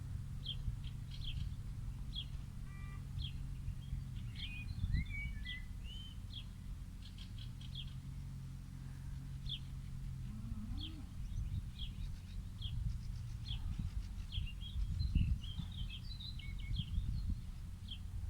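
Small birds chirping, short high calls repeating every second or so throughout, over a steady low rumble with a faint hum.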